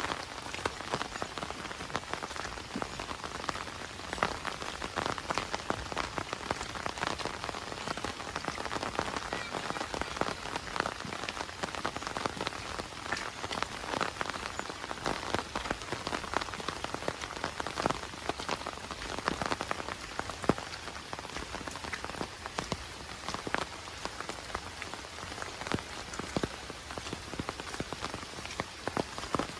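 Heavy rain falling steadily, with a dense patter of many close, distinct drop impacts.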